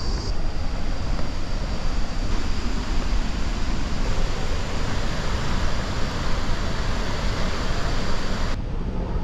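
Steady roar of Victoria Falls, a dense rush of falling water and spray with a heavy low rumble; the upper hiss thins a little near the end.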